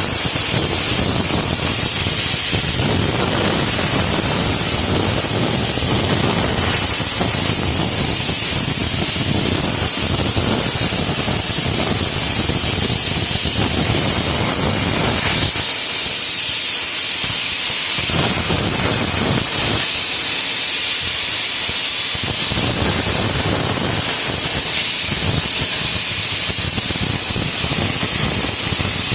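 Steady, loud hiss of a pressurised air spray running continuously, its deeper part easing off briefly twice past the middle.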